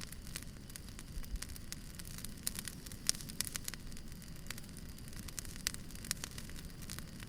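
Wood fire crackling: irregular sharp pops and snaps over a steady low noise of burning logs.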